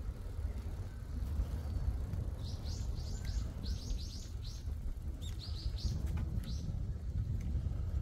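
A small bird chirping in quick runs of short high notes, three to five at a time, over a steady low rumble of wind on the microphone.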